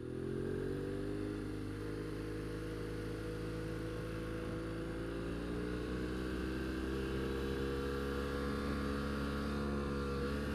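BMW F800R's parallel-twin engine running at a steady cruise, its note easing down a little near the start and then rising gently, with wind noise on the helmet-mounted microphone.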